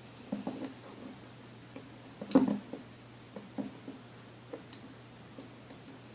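Scattered light clicks and taps of a screwdriver and small set screws being worked out of a vintage mixer, with one sharper knock about two seconds in.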